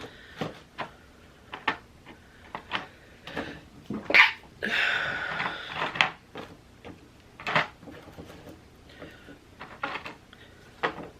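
Small clicks, taps and knocks of cookie pieces and plastic packaging being handled and set down on a plastic tray, with a louder knock about four seconds in followed by about a second of rustling.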